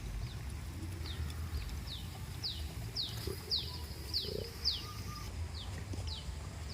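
A small bird calling: a run of about ten short, high notes, each falling in pitch, repeating roughly twice a second, over a low steady rumble.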